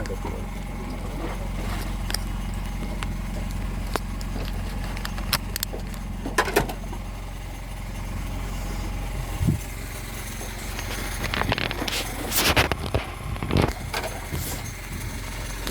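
A steady low engine hum, with scattered clicks and short scraping, rattling handling noises, busiest in the second half.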